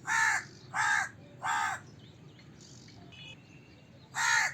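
Crow cawing: three harsh caws in quick succession, then a pause and a fourth caw near the end.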